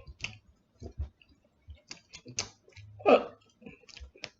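Wet mouth clicks and smacking from someone chewing sauce-covered chicken wings close to the microphone, irregular and uneven. About three seconds in there is one short, louder sound from the throat.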